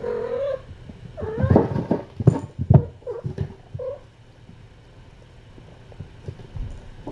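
Cat meowing: a short call at the start and another about a second and a half in, with a brief mew near four seconds. Several sharp knocks and bumps come between about one and a half and three seconds in.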